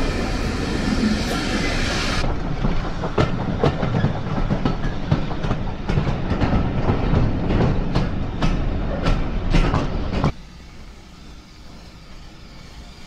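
Passenger carriage of a steam-hauled train running on the rails, heard from a carriage window: a steady rumble with a run of sharp clicks as the wheels pass over rail joints. About ten seconds in, the sound drops abruptly to a quiet steady hush.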